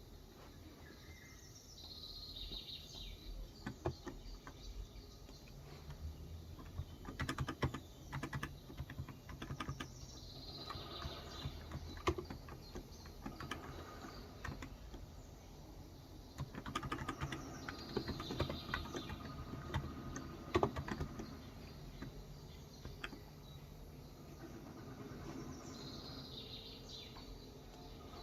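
Typing on a Cox Endeavour electro-capacitive (contactless) 35g tenkeyless keyboard, in irregular bursts of keystrokes with pauses between them. Small birds chirp now and then.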